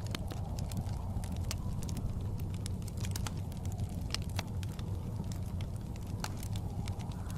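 Wood fire crackling with frequent sharp pops over a steady low rumble of blizzard wind.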